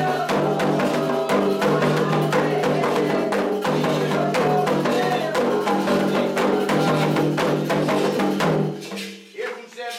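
Candomblé toque: rapid hand drumming on atabaque drums with a struck bell or block, under a sung chant with held notes. The music stops abruptly near the end.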